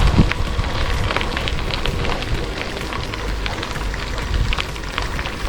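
Wind buffeting the microphone of a camera carried on a moving bicycle, a steady low rumble with a scattered crackle running through it.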